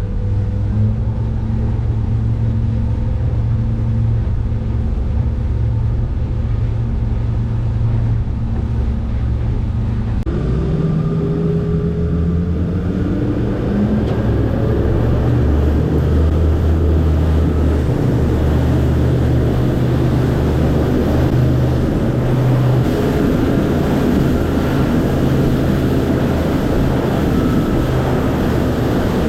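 Motorboat engine running steadily, then throttled up about ten seconds in, its pitch rising. A rush of water and wind then grows as the boat gains speed.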